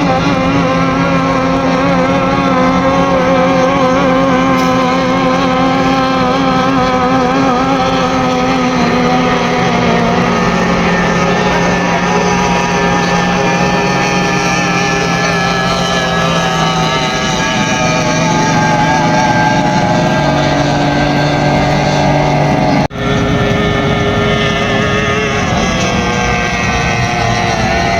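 Several power-boat outboard motors running together during an engine warm-up, their pitches drifting slowly up and down. A brief break cuts the sound about 23 seconds in.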